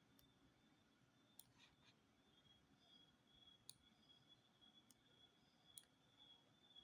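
Faint computer mouse clicks, about five single clicks at uneven intervals, as points are placed one by one with a point-by-point selection tool, over near-silent room tone.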